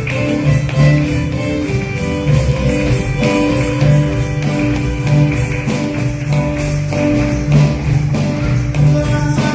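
Instrumental music from a live band, with a tambourine shaken in a steady beat over held instrument notes and no singing.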